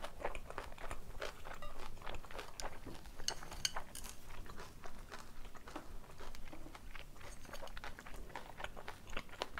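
A person chewing a mouthful of jajangmyeon with glass noodles, pork and green chilies close to the microphone: a steady run of small wet clicks and smacks from the mouth.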